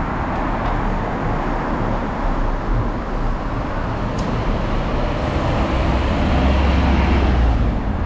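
Steady road traffic noise, with a low rumble that swells for a few seconds in the second half, as of a heavy vehicle passing.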